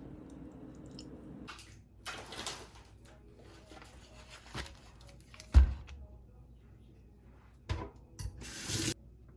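Kitchen handling noises: two short bursts of rushing noise and a single sharp knock about halfway through, which is the loudest sound.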